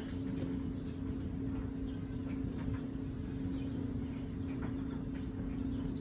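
Steady low hum over a continuous rumbling background noise, with a few faint ticks.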